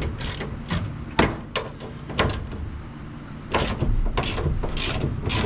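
Ratchet wrench working a seized door hinge bolt: a run of short clicking strokes, spaced out early and coming about twice a second over the last two seconds, over a steady low hum.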